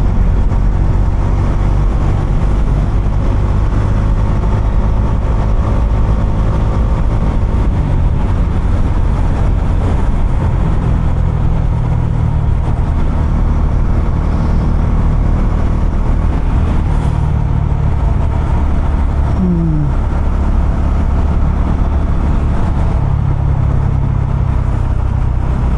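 Bajaj Dominar 250's single-cylinder engine and exhaust running under way, the engine note rising and falling with the throttle and dropping in pitch a couple of times.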